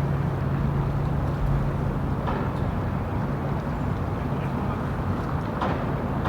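City street ambience: a steady low hum and rumble of traffic, with two brief sharp sounds, one about two seconds in and one near the end.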